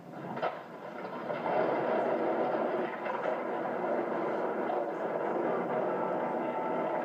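Skateboard wheels rolling over concrete pavement in a steady rumble, with a sharp clack about half a second in.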